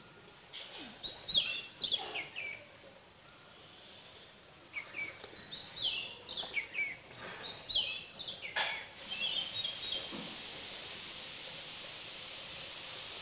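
Birds chirping in two bouts of short, quick falling phrases. About nine seconds in, a steady high hiss starts and continues.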